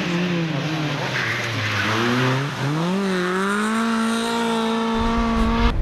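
Rally car engine coming off the throttle with its note falling, tyres scrabbling through a corner, then accelerating hard with the revs climbing quickly about halfway through and holding high and steady.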